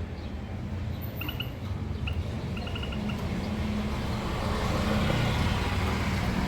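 Small cage finches chirping: a few short high chirps about a second in, then a quick run of about five. A steady low rumble, like passing road traffic, is the loudest sound throughout.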